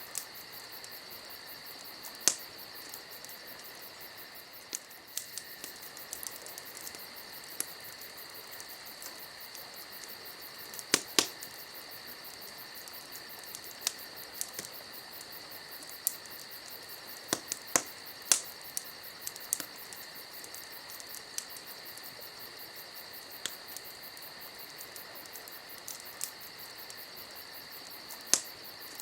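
Wood campfire crackling, with irregular sharp pops and snaps, several of them loud, over a steady high trilling of crickets.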